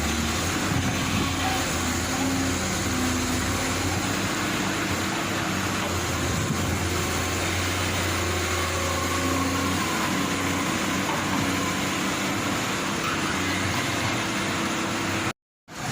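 Heavy vehicle engine running steadily with a low drone, cut off abruptly for a moment near the end before resuming.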